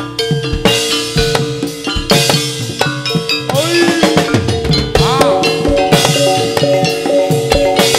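Live Javanese folk-dance music for a gedruk performance: quick, dense drum strokes with ringing metallic and xylophone-like notes over a held note, and a couple of sliding pitch swoops in the middle.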